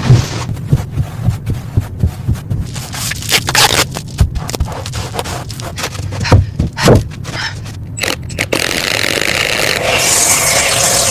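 Irregular knocking and scraping, with a few louder knocks around six to seven seconds in, then a steady, even scraping noise from about eight and a half seconds in.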